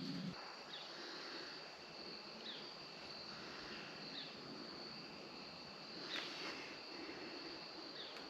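Insects trilling steadily on one high note, with a few faint, short falling chirps every second or two.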